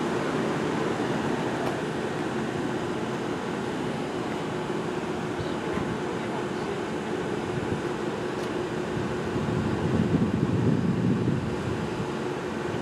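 A train running: a steady rumble with a constant hum, swelling a little about ten seconds in.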